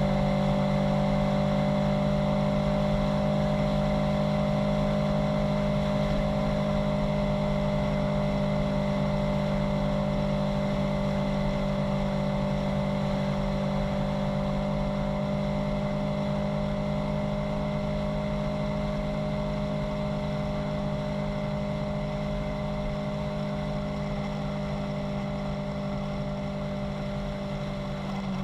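Kawasaki Z900's inline-four engine running at a steady, nearly constant pitch while riding, the pitch and loudness easing down slowly.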